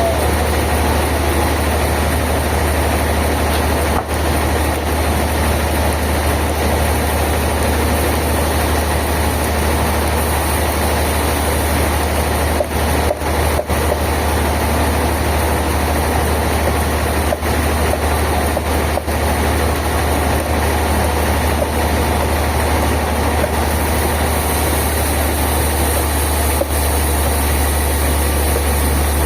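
Heavy sawmill machinery running steadily, a deep engine hum under a dense noise, with a few momentary dips in level.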